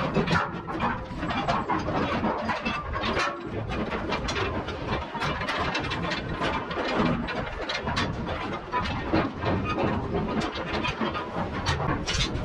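Steady clatter of many short metal knocks and clanks over a constant noisy background, from container lashing gear being handled on deck.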